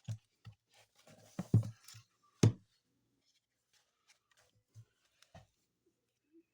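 A picture book handled close to the microphone: several sharp thumps and rustles in the first two and a half seconds, the loudest about two and a half seconds in, then a few faint clicks.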